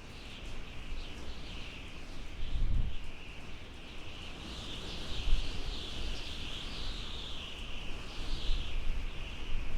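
Birds chirping in a dense, continuous chorus of high wavering calls, over a low wind rumble.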